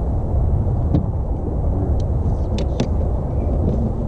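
Strong wind buffeting the microphone: a steady low rumble, with a few sharp clicks about one, two and nearly three seconds in.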